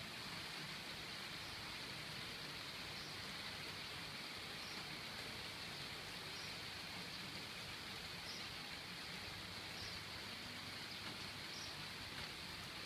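Steady rain: an even hiss that does not change.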